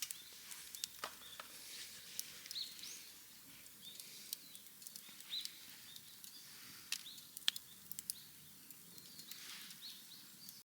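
Small birds chirping in short repeated calls, with scattered sharp clicks. The sound cuts off abruptly near the end.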